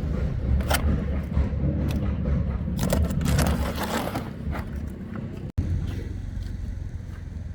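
A motor running steadily, with short scraping and knocking sounds over it.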